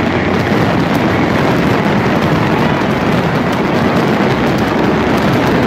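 Large fireworks display: a dense, continuous rumble of booms with fine crackling running through it.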